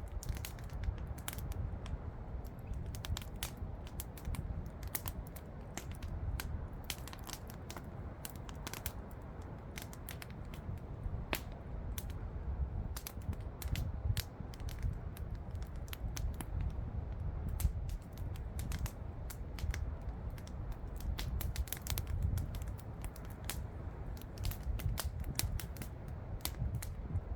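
Wood campfire crackling, with many irregular sharp snaps and pops over a steady low rumble.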